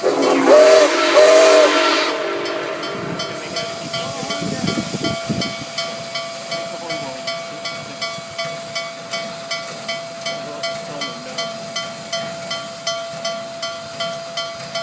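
Steam locomotive whistle of Nickel Plate Road 765 gives two short blasts over hissing steam, the standard signal that the train is about to move forward. Then the locomotive bell rings steadily, struck about twice a second, with a burst of steam around four to five seconds in.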